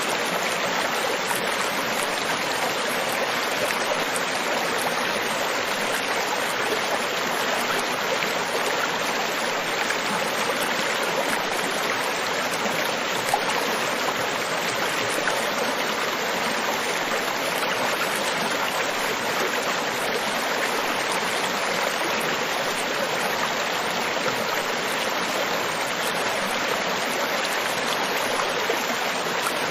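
Steady rushing water, an even, unbroken wash with no rise and fall of separate waves.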